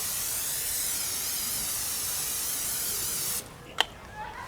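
Aerosol butter cooking spray hissing steadily from the can for about three and a half seconds, stopping abruptly, followed by a single sharp click.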